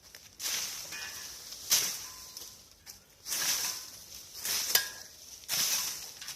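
Fallen branches and dry leaves scraping and rustling as debris is cleared by hand: five noisy bursts about a second apart, with two sharp snaps.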